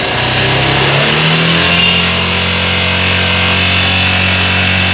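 Yamaha FZ250's single-cylinder engine revved up from idle over about a second and a half, then held steady at around 5000 rpm, the speed used to check that the repaired stator charges the battery.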